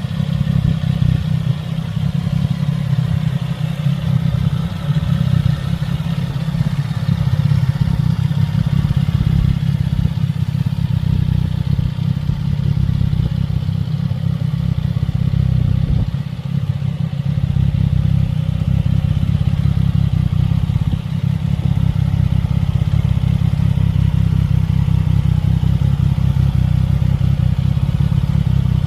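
CFMOTO 675SS's inline three-cylinder engine idling steadily, with a low, even pulsing exhaust note.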